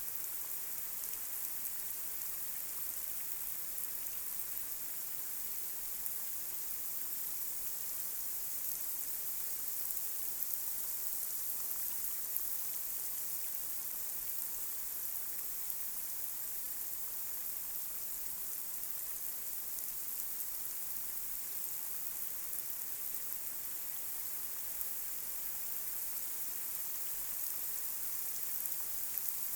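Light rain falling on a street: a steady high hiss with scattered small drop ticks.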